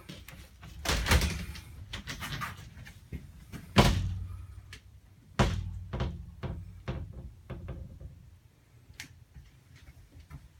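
Doors in a travel trailer's bathroom being opened and closed, probably the glass shower door or cabinet doors. There are three louder knocks about one, four and five and a half seconds in, with lighter clicks and taps between them.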